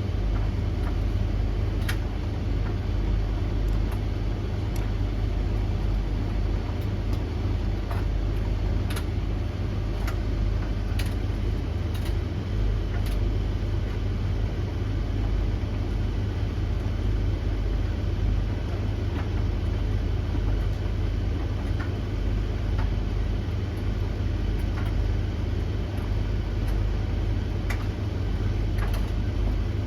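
Three tumble dryers (Blomberg LTK310030W, Russell Hobbs RH3VTD800 and Hoover HLEC8TRGR-80) running together mid-cycle: a steady low drum rumble and fan hiss. Irregular light clicks and taps sound as the loads tumble.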